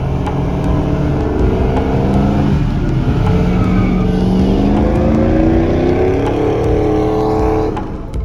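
A truck engine revving: its pitch dips briefly, then climbs steadily for several seconds before cutting off sharply near the end.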